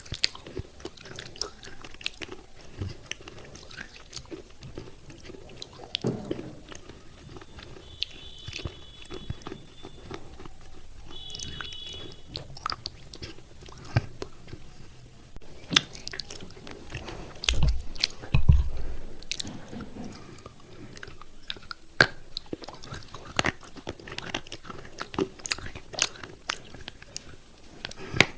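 Close-up biting and chewing of thick broken clay pot pieces, crisp crunches and cracks coming at irregular intervals. Two dull low thumps a little past the middle are the loudest moments.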